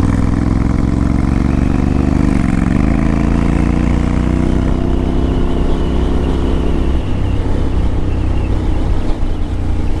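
A 2015 Honda CTX700's parallel-twin engine pulls under throttle, its pitch climbing. About two and a half seconds in the note dips as the automatic gearbox shifts up, then climbs again, and it changes once more about seven seconds in.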